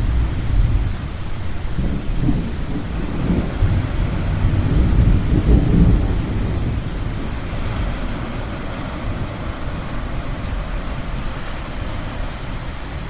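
Low rolling thunder rumbling over a steady wash of surf, strongest a few seconds in and then fading back.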